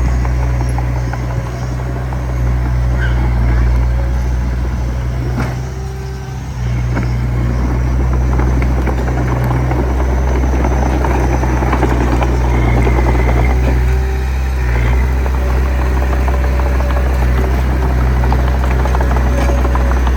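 D20P bulldozer's diesel engine running steadily under load, a low throbbing drone with metallic track clatter over it. It eases off briefly about six seconds in, then picks up again.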